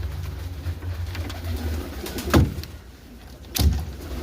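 Pigeons cooing, with two sharp knocks a little over a second apart that are louder than the cooing.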